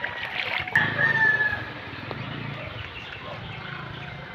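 A rooster crowing once, about a second in, after a sharp knock, over a steady low rumble.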